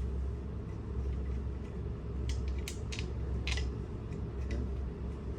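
A few short metallic clicks and clinks, bunched about two to three and a half seconds in, from parts and hand tools being handled during pump and motor assembly, over a steady low hum.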